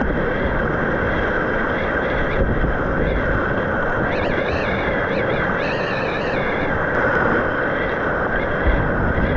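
Steady rush of whitewater rapids around a kayak.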